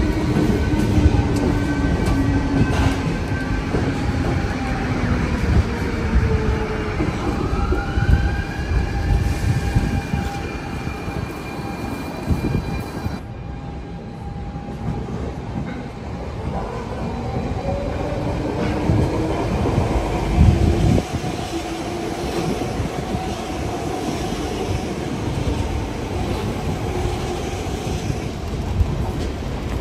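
Electric S-tog commuter trains moving at the station platforms: a low rail rumble under motor whines that rise and fall in pitch. The sound changes abruptly about 13 seconds in.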